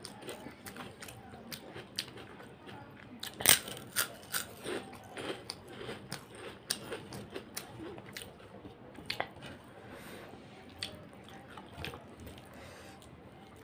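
Close-miked eating: chewing and crunching mouthfuls of rice mixed with crumbled fried papad, with many sharp wet clicks of the mouth. The loudest crunch comes about three and a half seconds in.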